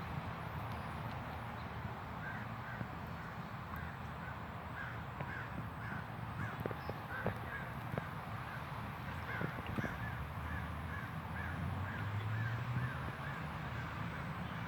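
A bird calling in a long series of short, repeated calls, about two a second, over a steady low outdoor rumble with a few faint clicks.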